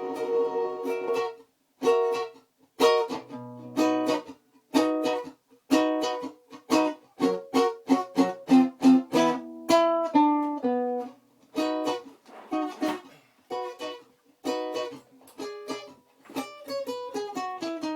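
Acoustic guitar played through an effect, plucked in separate chords that each ring briefly and die away, with short runs of single notes in between and a falling run near the end.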